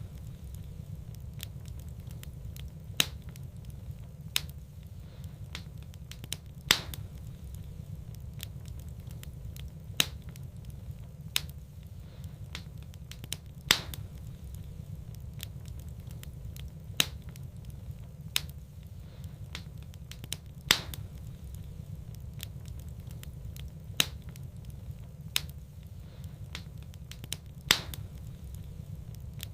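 Wood fire in a fireplace crackling: sharp pops every second or two, a few of them louder, over a steady low rumble.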